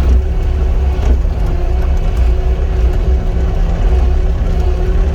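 Cat 259 skid steer's diesel engine running steadily under work, with a steady hum riding over the low engine drone and a light knock about a second in.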